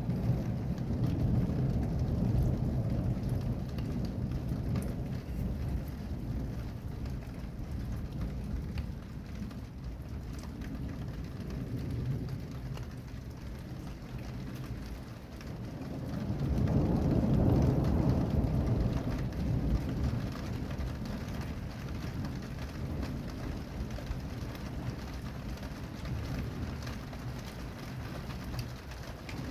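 Steady rain falling, with rolling thunder rumbling low throughout, swelling loudest about halfway through and then fading back.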